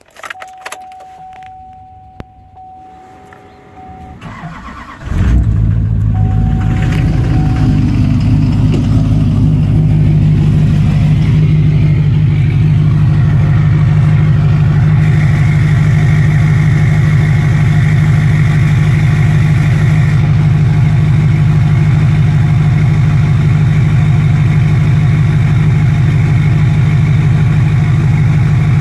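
2005 Duramax LLY 6.6-litre turbo-diesel V8 cold-started at 16 degrees: a steady tone sounds for a few seconds, then the engine cranks and catches about five seconds in and settles into a steady, loud high idle.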